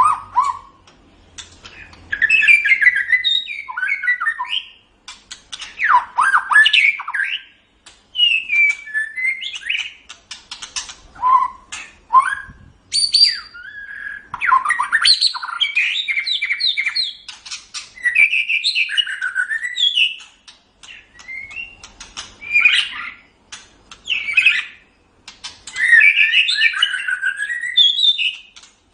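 White-rumped shama (murai batu) singing in loud, varied phrases of rich whistles and chattering notes. Each phrase lasts a second or two, with short pauses between.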